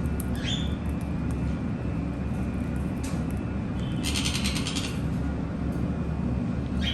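Pet conures making a short rising chirp about half a second in and a brief rapid, buzzy rattling chatter about four seconds in, over a steady low hum.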